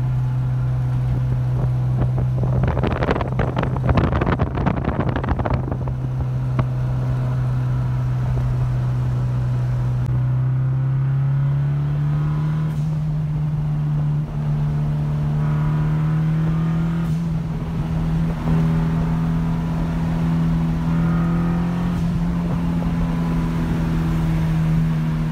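Turbocharged Honda Civic hatchback's engine droning steadily from inside the cabin. Its pitch steps up about eleven seconds in and holds there. A few seconds of loud rattling, flapping noise lie over it from about two and a half to six seconds in.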